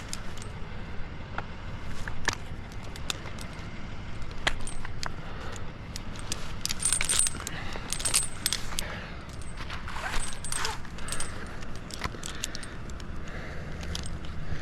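Metal climbing hardware clinking and jangling as a tree climber moves, with many irregular sharp clicks, some ringing briefly.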